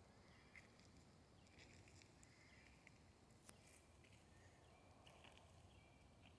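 Near silence, with faint, short, high bird chirps now and then and a small click about three and a half seconds in.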